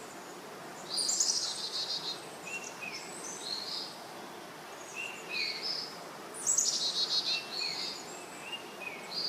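Birdsong: a fast, buzzy high phrase about a second in and again after six seconds, with short repeated chirps between, over a steady background hiss.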